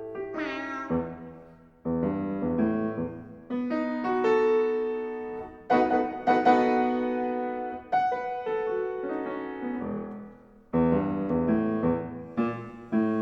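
Solo piano playing an introduction, chords struck and left to ring, with strong attacks about two, six, eight and eleven seconds in.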